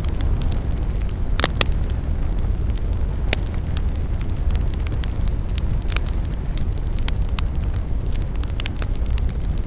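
Fire in a fireplace crackling, with frequent small pops over a steady low rumble; a few louder pops stand out, about one and a half seconds in, near three seconds and near six seconds.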